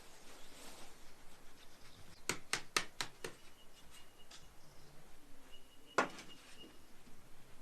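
Sharp knocks on wood: a quick run of five, about four a second, then a single louder knock a few seconds later.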